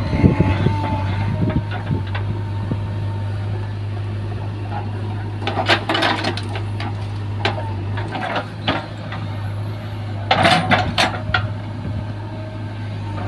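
Backhoe loader's diesel engine running steadily, with two bursts of clattering knocks about six and ten seconds in.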